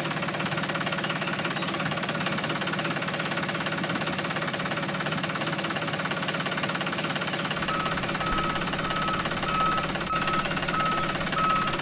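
Small motor of a DIY mini tractor running steadily with an even buzz. From about eight seconds in, a short high beep repeats about twice a second over it.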